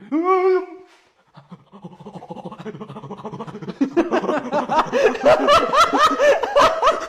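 A short cry, then laughter that starts about a second and a half in and grows louder and harder from about four seconds in, a quick run of 'ha-ha' pulses.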